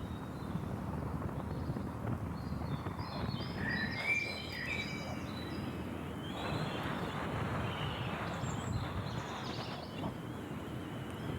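Birds chirping in a string of short high calls about three to five seconds in, over a steady low rumble of outdoor noise.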